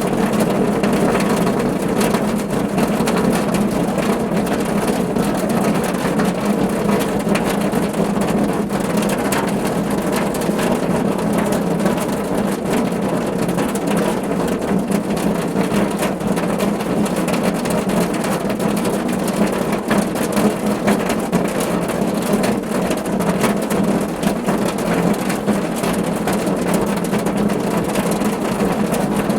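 Steady rain drumming on a car's roof and body, a dense patter of drops over a low resonant rumble.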